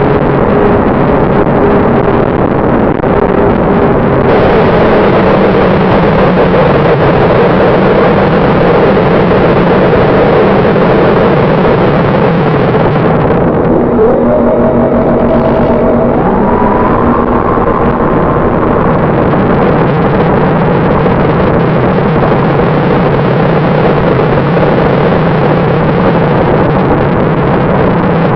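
Onboard sound of an FPV model airplane in flight: loud, steady wind rush over the microphone, with the motor's hum underneath. About halfway through, the motor tone rises in pitch.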